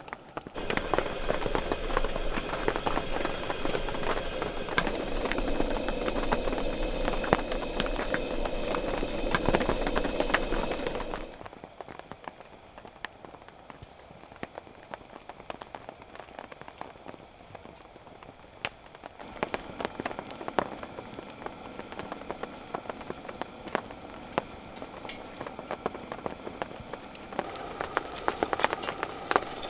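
Rain pattering steadily as many small drops, louder at first and dropping abruptly to a quieter patter about eleven seconds in.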